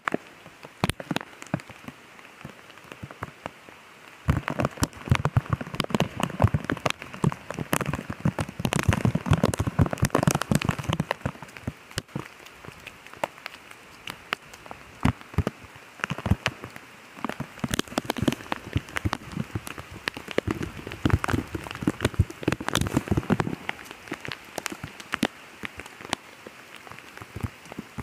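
Rain falling, with a dense patter of sharp ticks from drops landing close by. It swells into louder, fuller spells about four seconds in and again past the middle.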